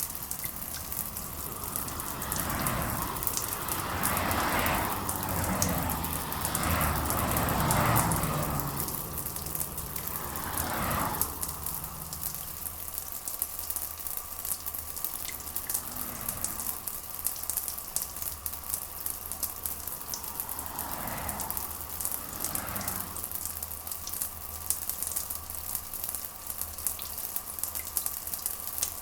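Steady rain with a fine patter of drops hitting a surface. Louder rushing swells rise and fall a few times, one long one early on and a shorter one about two-thirds of the way in.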